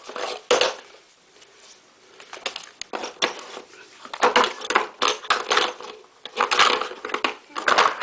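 Steel masonry drill bits clinking and rattling against each other as they are handled, in several short bursts of clatter.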